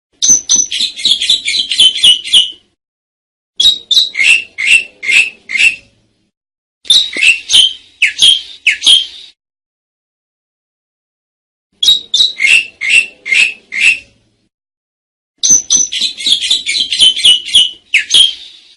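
Asian pied starling (jalak suren) calling: five bursts of rapid, repeated high notes, each one to two and a half seconds long, separated by silent gaps.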